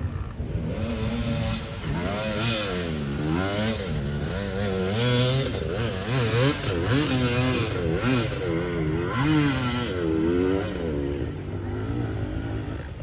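Off-road racing engines on a motocross track, revved up and down over and over, the pitch rising and falling about once a second as the riders work the throttle over the jumps.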